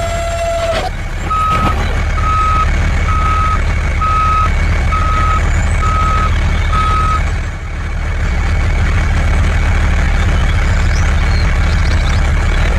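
A vehicle's reversing alarm beeping seven times, about once a second, over a steady low engine rumble; the beeps stop a little past halfway while the engine keeps running.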